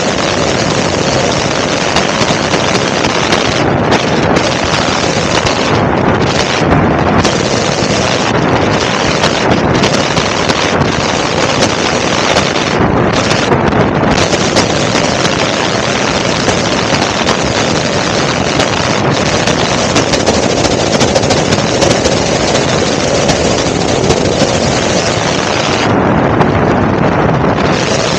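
Loud, steady helicopter engine and rotor noise with wind buffeting the microphone.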